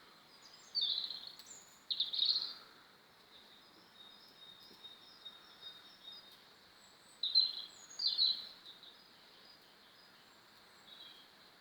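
Budgerigars chattering: a soft continuous warble with four louder, harsher chirps in two pairs, about one and two seconds in and again about seven and eight seconds in.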